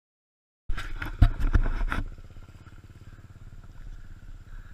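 Enduro motorcycle engine running. The sound cuts in loud with a couple of sharp knocks, then settles after about a second into a quieter, steady, slow running.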